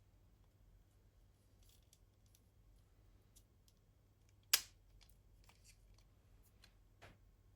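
Sprue cutters snipping a plastic model-kit part, one sharp snip about halfway through and a smaller one near the end, among faint clicks of small parts and tools being handled.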